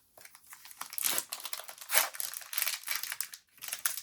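A Disney Lorcana booster pack's foil wrapper being crinkled and torn open by hand, in a rush of sharp crackling that runs from about a second in until shortly before the end.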